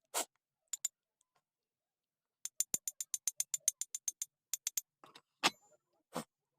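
A quick run of sharp, high clicks, about six or seven a second for a couple of seconds, with a few heavier knocks before and after it.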